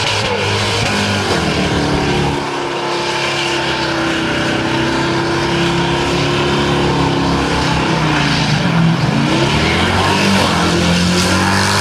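Naturally aspirated LS1 V8 of a VY SS Commodore held at high revs during a burnout, the rear tyres spinning with a steady hiss. The revs dip and climb back about a second in and again near the end.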